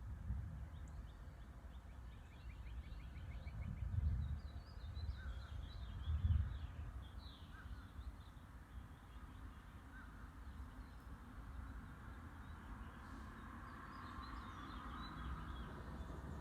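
Several birds chirping and calling over a low, uneven rumble that swells a few times in the first half.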